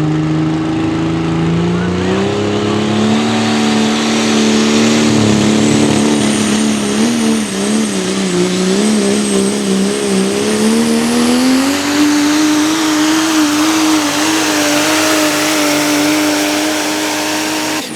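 Ford diesel pulling truck's engine running at high revs under full load as it drags the sled. The pitch steps up about two seconds in, wavers and sags in the middle, then climbs again and holds high until it cuts off at the end.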